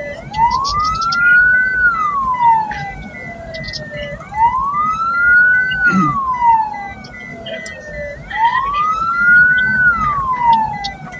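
Wailing siren of an ambulance-hearse. Each cycle rises over about a second and a half and falls back over about two and a half seconds, roughly every four seconds, with engine and road rumble underneath.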